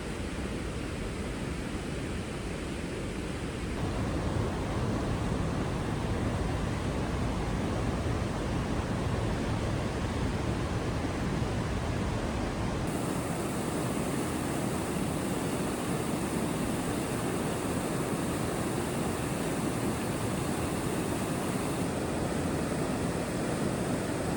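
Rushing creek water, a steady wash of noise that gets louder about four seconds in and turns brighter and thinner around thirteen seconds in.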